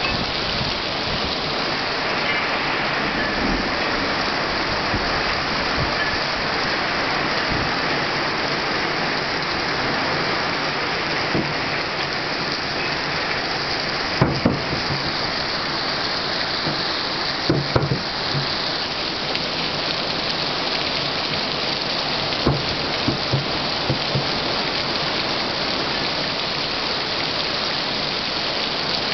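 Heavy rain falling steadily in a thunderstorm, with a few sharper, louder taps about halfway through and again near two-thirds of the way in.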